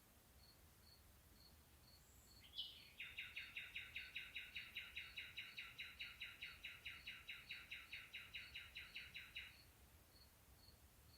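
A bird gives a fast rattling trill of short repeated notes, about five a second, starting about three seconds in and lasting some six seconds. Under it, faint high pips repeat steadily about twice a second.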